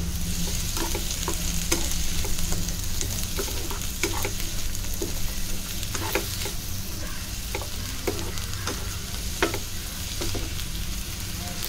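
Chopped onion, tomato, garlic, ginger and cashews sizzling in a little oil in a frying pan on high flame. A wooden spatula stirs them with irregular scrapes and taps against the pan.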